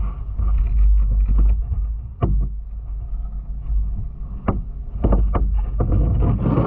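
Kayak paddle strokes, short splashes in the water, about one every two seconds and then several in quick succession near the end, over a steady low rumble of wind on the microphone.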